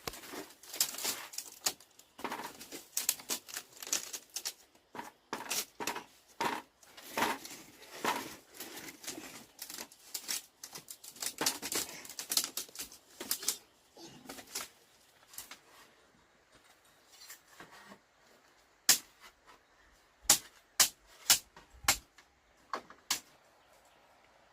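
Irregular clicks, rustles and short scrapes of objects being handled, then a handful of sharp knocks near the end.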